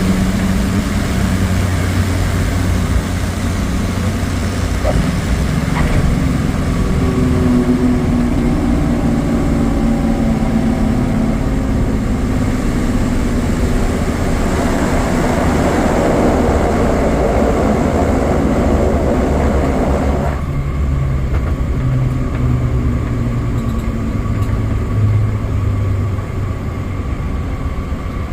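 Cessna 208 Caravan's single turboprop engine and propeller running loud and steady, heard from inside the cabin. The rushing noise swells for several seconds, then drops away abruptly about twenty seconds in, leaving a lower hum.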